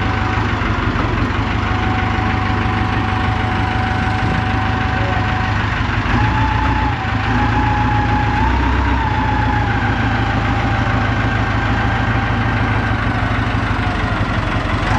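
An engine running steadily at idle, with a whining tone over it that steps up in pitch about six seconds in, wavers, and then settles.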